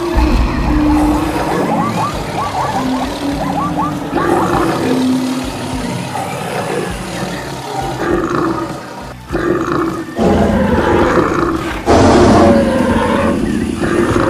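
A dense mix of animal sound effects layered over a cartoon stampede: wild animal roars and grunts with other animal calls, loud throughout, the mix changing abruptly a few times in the second half.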